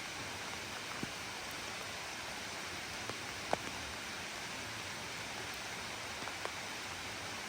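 Steady rain falling, with a few single drops striking close by, the loudest about three and a half seconds in.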